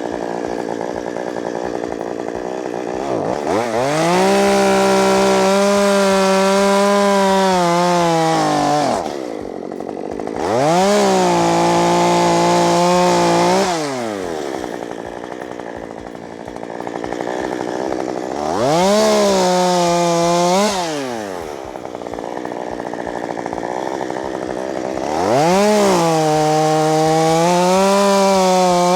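Chainsaw alternating between idle and full throttle in four cutting bursts, its pitch sagging under load as it cuts through broken tree limbs.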